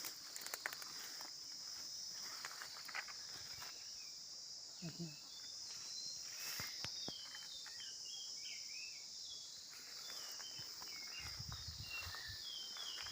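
Steady high insect drone with a few footsteps early on. From about halfway through, short bird chirps come in.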